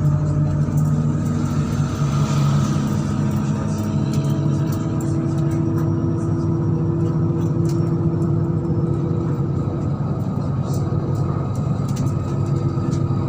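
MAZ-103 city bus running along in traffic, heard from on board: a steady low engine and driveline hum. A higher whine comes in about four seconds in and fades after about ten seconds.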